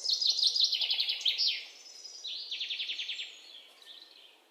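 A songbird singing: a fast trill of repeated notes that steps down in pitch and ends in a flourish, then after a short pause a second, shorter trill.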